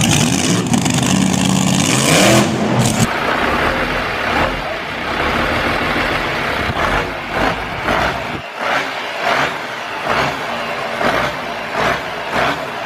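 Motorcycle engine running and revving, cutting off abruptly about three seconds in, followed by a noisier engine-like sound that swells and fades about twice a second.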